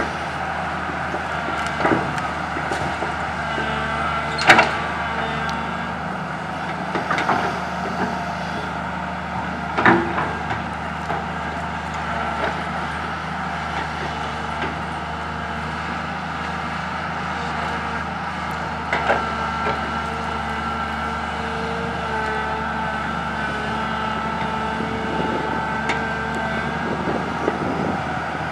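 Komatsu PC200 excavator's diesel engine running steadily with a steady high whine on top, broken by sharp knocks and clunks as it works, the loudest about four and a half and ten seconds in.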